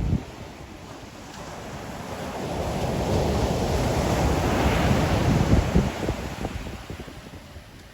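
Ocean waves breaking on the shore: one wave builds over a few seconds, crashes and washes out, then fades near the end. Wind rumble on the microphone runs underneath.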